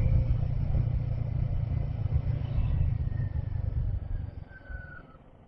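Low rumble of wind and engine while riding a Royal Enfield Himalayan 450 motorcycle, dropping off sharply about four seconds in.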